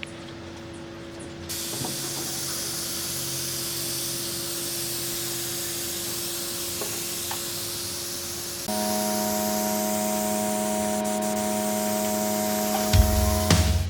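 Steady spraying hiss over a steady machine hum; the hum switches to a different, fuller set of tones about two-thirds of the way through. A low beat comes in just before the end.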